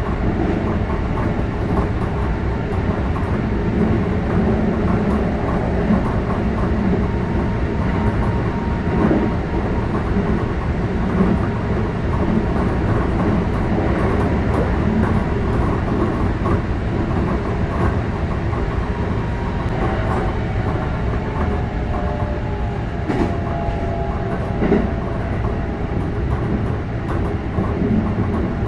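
Keikyu 600 series electric train running, heard from inside the car: a steady rumble of wheels on track with rail-joint clickety-clack and a faint whine, and a few sharper knocks near the end.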